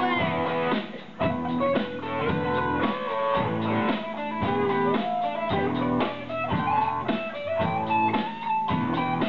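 Live rock band music led by guitar, with many quickly picked notes.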